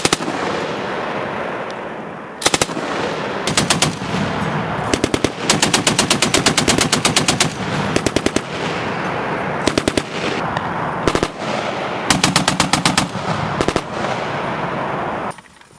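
Machine guns firing in bursts of automatic fire: several short bursts and a longer run of about two seconds, over a continuous din of gunfire. The sound starts abruptly and stops just before the end.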